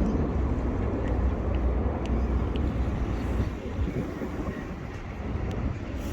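Thames Clipper river bus's engines rumbling steadily, with wind buffeting the microphone; the rumble eases slightly about halfway through.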